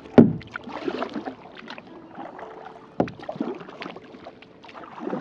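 Kayak paddle strokes in lake water: twice the blade hits the water with a sharp splash, about three seconds apart, each followed by a short trickle of water.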